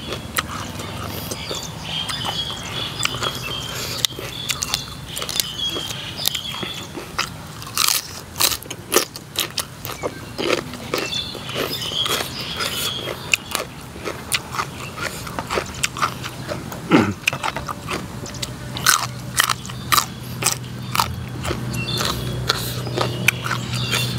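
Close-miked eating: crunchy bites and chewing of fresh raw vegetables and koi kung (Isan raw shrimp salad), many short sharp crunches one after another.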